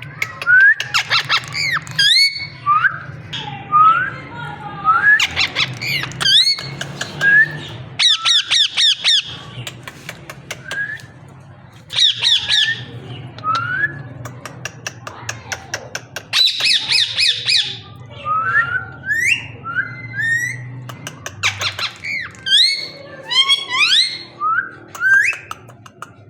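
Parrot calling: many short rising whistles broken by several loud, fast rattling squawk bursts.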